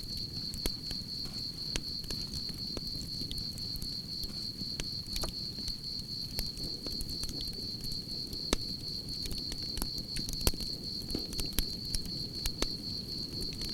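Campfire crackling with irregular sharp pops over a low, steady rumble of flames, while crickets chirp in a continuous high-pitched trill. A few louder pops stand out in the second half.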